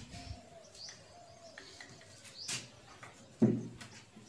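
Small birds chirping repeatedly in short high notes, with a few sharp clicks and one brief, louder low sound about three and a half seconds in.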